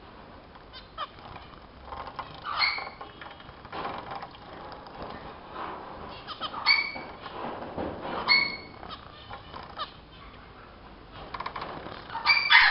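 Pet finches (zebra, Bengalese and strawberry finches) giving short, nasal calls, about four or five times, with soft rustling and fluttering noises in between.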